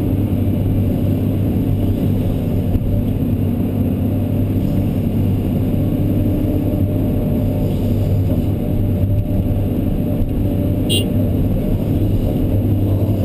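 Kobelco SK210LC excavator's diesel engine running steadily while the machine smooths a ditch slope, with a brief high tick about eleven seconds in.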